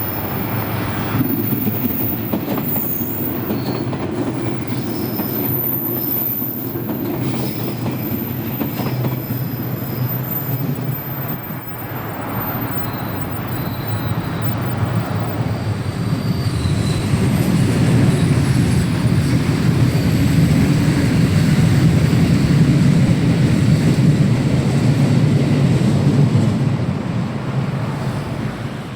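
Electric train running past on the rails, a continuous rumble of wheels and running gear with a faint high wheel squeal at times; it swells to its loudest a little past halfway and fades away near the end.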